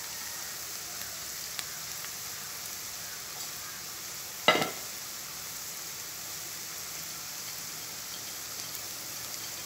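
Onion, potato and carrot frying with a steady sizzle in an enamel pot as diced vegetables are dropped in, with one sharp clink against the pot about halfway through.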